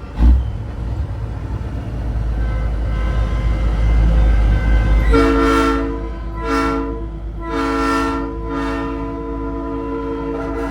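Nathan Airchime P3 three-chime train horn on a big rig blowing a chord in several blasts from about halfway through, the last blast held long. Before it, a low truck rumble swells, with a sharp thump right at the start.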